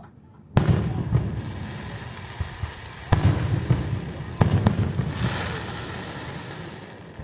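Aerial firework shells bursting: four sharp booms, the last two close together, each trailing off in a long rumbling echo.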